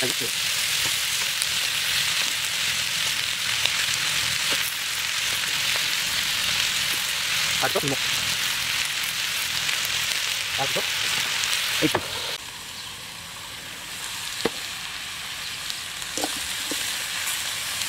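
Pork and chopped arum stalks frying in a metal wok: a steady sizzle with a few sharp knocks of the metal ladle against the pan. The sizzle drops somewhat quieter about twelve seconds in.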